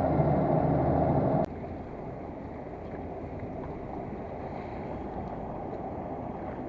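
A steady motor hum that cuts off abruptly with a click about a second and a half in, leaving a quieter, even wash of water and wind.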